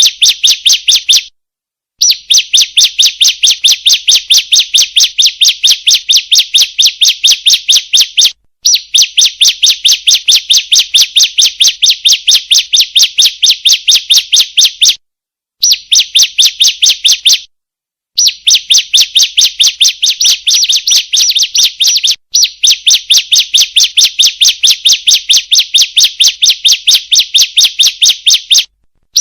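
Female ciblek (prinia) calling: a fast, even series of sharp, high chirps, several a second, in runs of a few seconds broken by brief pauses. This is a lure call used to draw other ciblek to call.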